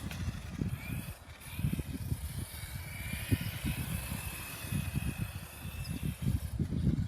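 Wind buffeting the microphone, with a faint high whine from a radio-controlled car's motor that rises and falls slightly as the car drives.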